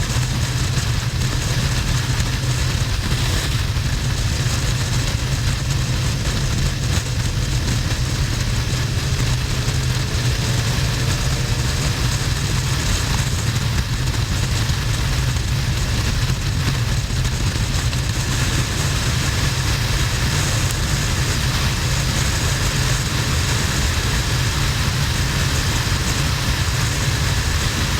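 Steady wind rush over the camera mixed with the low drone of a Harley-Davidson Sportster XL1200N's air-cooled 1200 cc V-twin running at highway cruising speed.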